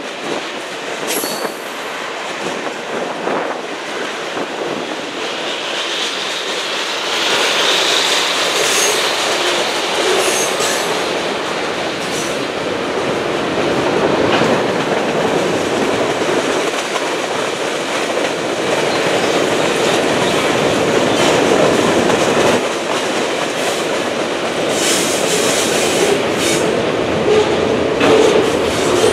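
Freight cars of a passing train, including loaded centerbeam lumber flatcars, a tank car and boxcars, rolling by: a steady rumble and rattle of steel wheels on the rail, with scattered clicks at rail joints. A high wheel squeal rises for a few seconds about seven seconds in.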